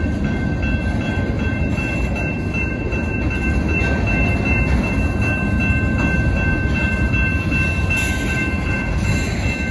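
A freight train's cars rolling steadily through a level crossing, their wheels rumbling on the rails. A steady high-pitched ringing runs over the rumble.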